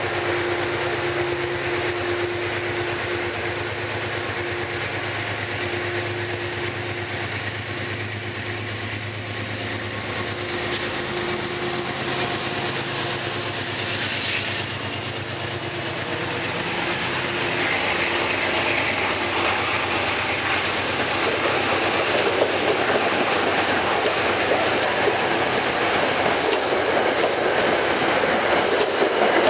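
GE P32AC-DM dual-mode diesel-electric locomotive pulling a commuter train out of a station: a steady engine hum, with a high whine rising slowly in pitch about ten seconds in. From about 18 seconds, the passing coaches' wheels clack rhythmically over the rail joints, louder toward the end.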